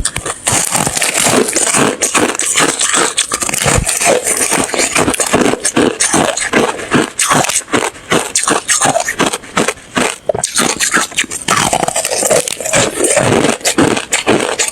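Ice being chewed close to the microphone: loud, rapid crunches, several a second, as the ice cracks between the teeth.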